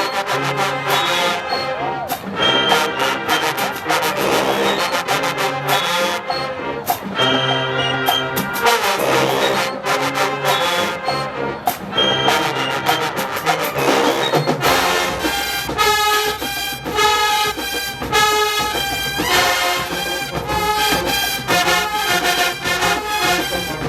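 HBCU show-style marching band playing, with loud brass (trombones and trumpets) over drums. About fifteen seconds in, the music changes to a new section with a faster, busier rhythm.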